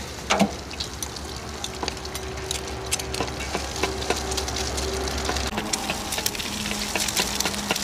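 Egg pancakes frying in hot oil in a wok, with a steady sizzle full of small crackles and pops. A metal spatula scrapes and clicks against the pan now and then.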